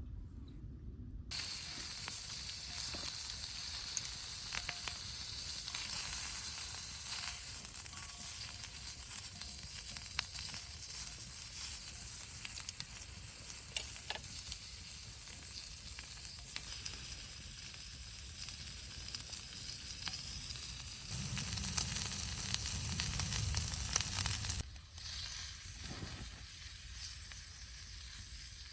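Food sizzling in a frying pan over a fire: a steady hiss with scattered small pops. It starts suddenly about a second in and drops away abruptly near the end.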